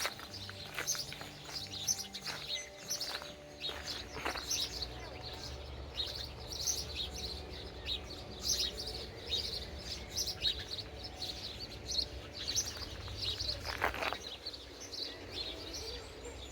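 Birds chirping: many short, high calls overlapping, with a low steady rumble of background noise beneath.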